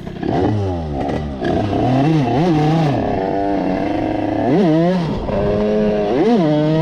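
Derbi 50 dirt bike's two-stroke single-cylinder engine, fitted with an Airsal 80 cc kit, revving on the move in quick throttle blips. Its pitch drops once near the start, then rises and falls several times.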